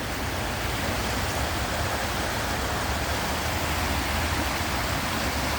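Swollen river rushing in a steady, unbroken roar of water, running high after several inches of rain, with a low rumble underneath.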